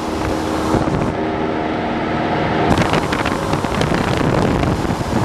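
Cessna 172's piston engine and propeller running steadily, heard from inside the cabin, with wind noise on the microphone. The sound goes duller for a moment about a second in, then clears again.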